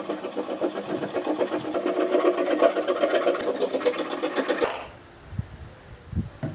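A small motor buzzing with a fast, even rattle, then cutting off about two-thirds of the way through, followed by two soft low thuds.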